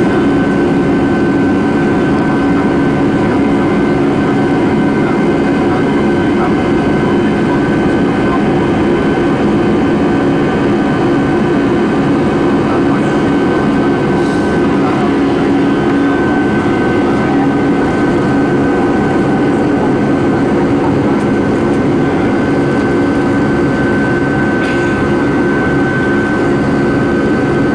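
Jet airliner engines running loud and steady, heard from inside the passenger cabin: a constant drone with a steady high whine over it.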